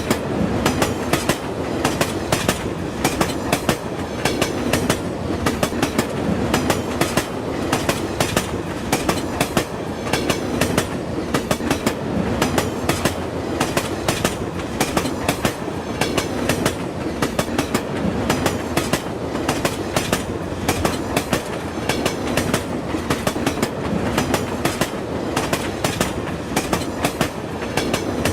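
Train running at speed over a bridge, its wheels clattering over the rail joints in a continuous clickety-clack, with a steady rumble underneath.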